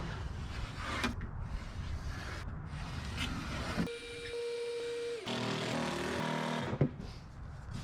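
Cordless drill motor running in two steady whines of about a second and a half each, midway through, with a sharp click just after. Before them comes rustling workshop noise.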